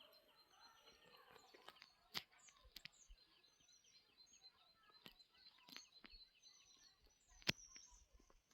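Faint birdsong of many short chirps, with a few sharp clicks, the loudest about two seconds in and about a second before the end.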